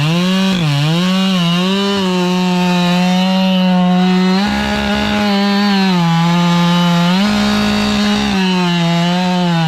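Husqvarna 592 XP two-stroke chainsaw with square-ground skip chain, held at full throttle while cutting into a stump. The engine note dips as the chain bites and recovers, several times, and runs a little higher for a stretch near the middle.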